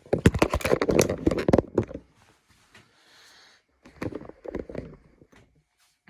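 Two flurries of rapid knocks and rustles, each lasting about a second and a half, the second starting about two seconds after the first ends.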